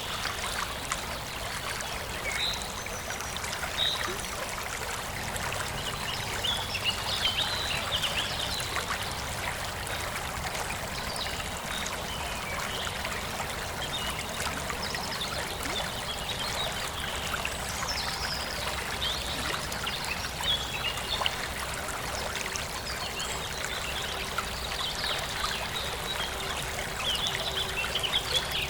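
Forest stream flowing and trickling steadily over rocks, with small birds chirping now and then, busiest in two spells.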